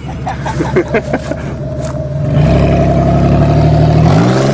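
Car engine running louder and then revving up, its pitch climbing steadily near the end as it accelerates.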